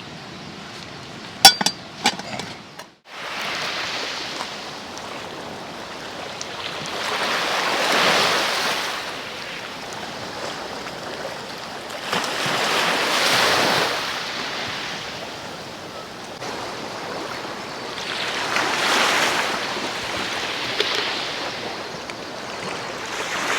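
A few small clinks, then after a sudden break, sea waves washing onto the shore, each surge building and falling back about every five to six seconds.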